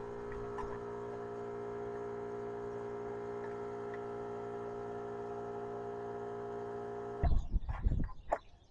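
Air compressor running with a steady, even hum, cutting off abruptly about seven seconds in. A few loud knocks and rustles follow near the end.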